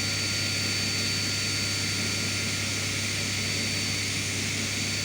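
Woodworking machine's electric motor running steadily, with a constant low hum under a high, even whine.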